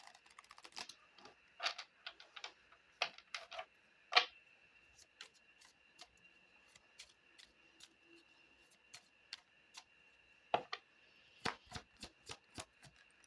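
Oracle card deck being shuffled and handled by hand: irregular soft clicks and taps of the cards, a few sharper snaps in places, over a faint steady high whine.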